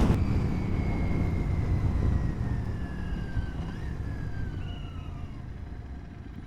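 Motorcycle and road noise dying away as the bike slows, with a single high whine that falls steadily in pitch over about four seconds.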